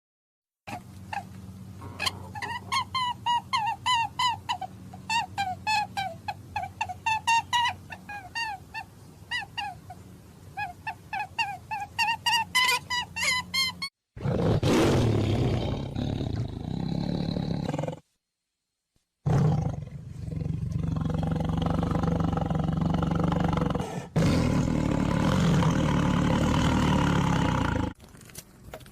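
Animal sound effects: first a long run of short, quick, high-pitched calls that rise and fall, then, from about halfway, long loud roars of a big cat, broken by a second of silence.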